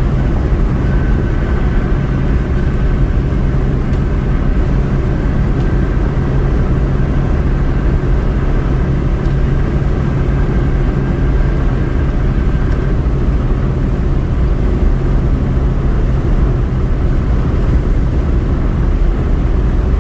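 Car being driven: steady engine and road rumble heard from inside the cabin.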